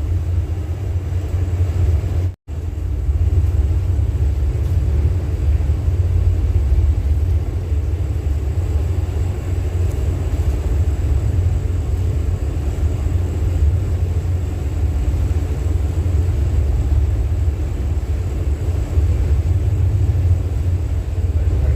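Steady low rumble aboard a ship at sea in stormy weather, with a brief dropout about two and a half seconds in.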